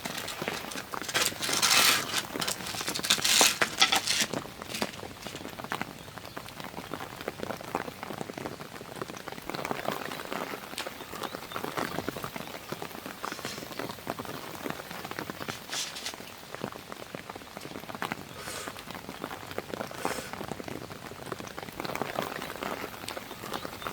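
Rain pattering steadily as a dense spray of small drop ticks, with a few louder noisy bursts in the first four seconds.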